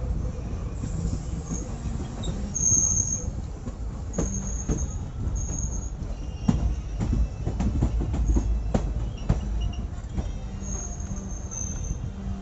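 Passenger train coaches running on the track: a steady low rumble with irregular sharp clicks from the wheels over rail joints and short high-pitched wheel squeals now and then.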